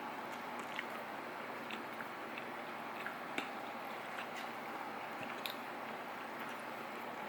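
Someone eating dumplings: soft chewing with scattered small clicks, over a steady background hiss.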